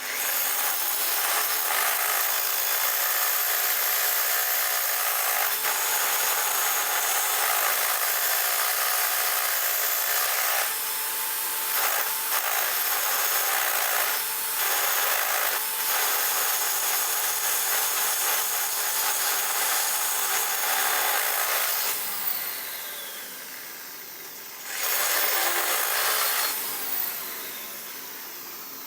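Handheld electric power tool running continuously under load, cutting or grinding, for about 22 seconds, then winding down with a falling whine; it runs again briefly a few seconds later and winds down once more.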